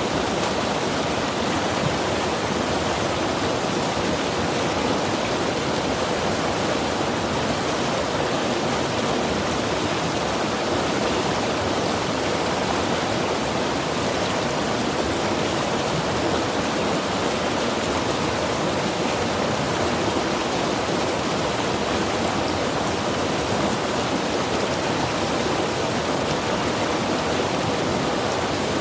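Mountain river rushing steadily over rocks, a continuous even roar of water without breaks.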